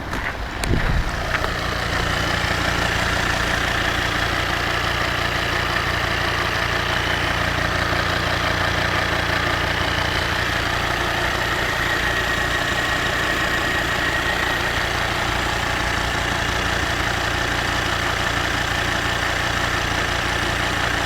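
Volvo D5 turbodiesel engine idling at operating temperature, with the knock that shows up when the engine is hot. A brief sharp sound about a second in, then steady running.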